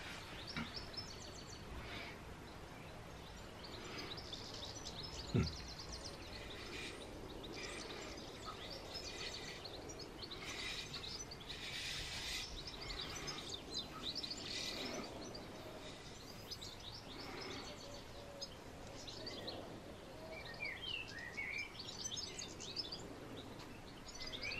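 Faint birdsong: several birds chirping in short phrases, with a single sharp knock about five seconds in.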